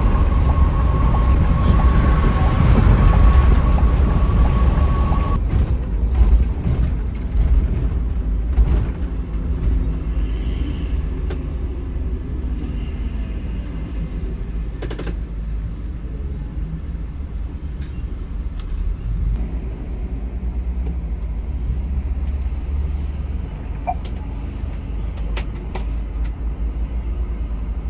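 Intercity coach driving on the road: a steady low rumble of engine and road noise, with a steady high whine for the first five seconds that ends abruptly.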